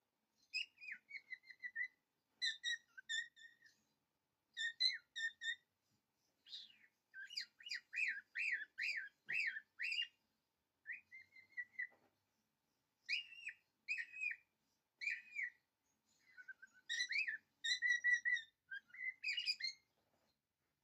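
A songbird singing in short whistled phrases of chirps with pauses between them, and a quick run of rising chirps, about two or three a second, near the middle.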